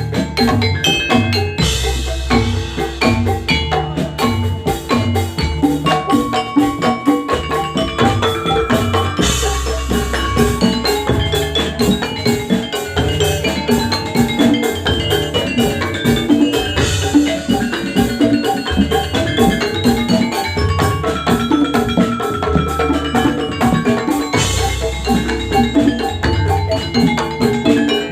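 Javanese gamelan music for jathilan played without vocals: metallophones ringing out a fast run of struck notes over hand-drum strokes, with a deep stroke swelling up about every seven to eight seconds.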